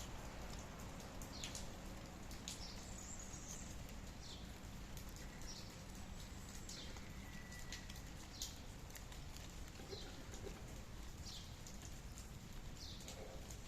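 Steady light rain falling, with scattered short high-pitched sounds over it and a brief whistled note about seven seconds in.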